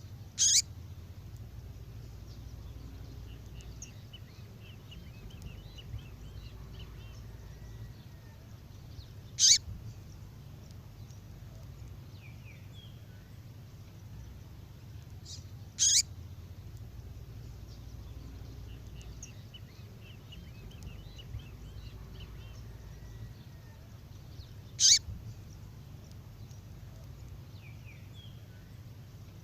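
Recording of a female songbird's call: four short, sharp calls spaced six to nine seconds apart, with faint twittering chirps between them over a steady low hum.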